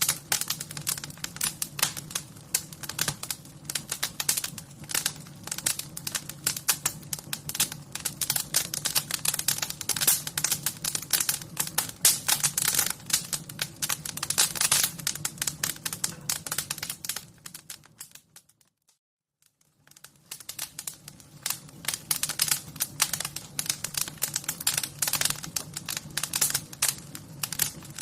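Fire crackling: a dense, irregular run of small crackles and pops over a steady low rumble. About two-thirds of the way through the sound fades away, drops out briefly, then comes back.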